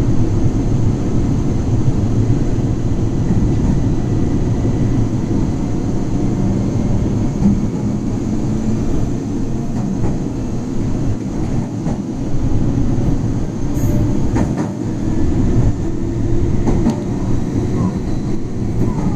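Train running along the track at reduced speed under a temporary speed restriction: a steady low rumble with a few faint clicks in the second half.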